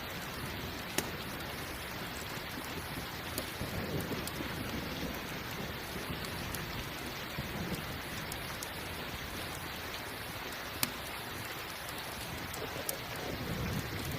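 Steady rain with low rumbles of thunder swelling up a few times, and a few sharp crackles of a campfire now and then.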